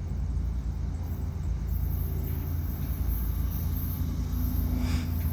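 Low rumble of an approaching freight train led by GE diesel locomotives, slowly growing louder.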